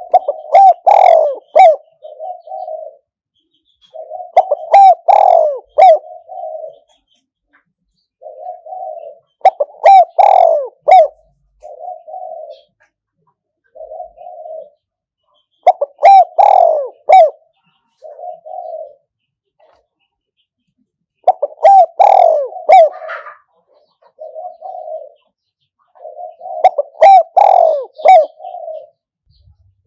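Spotted dove cooing, a caged decoy bird calling to lure wild doves. A loud phrase of several coos comes about every five to six seconds, with softer single coos in the gaps.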